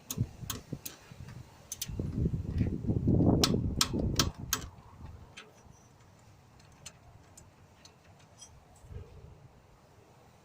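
Hand tools clicking and knocking against metal in an engine bay while a drive belt is being tensioned, with low rumbling handling noise, over the first four or five seconds; after that only a few faint scattered clicks.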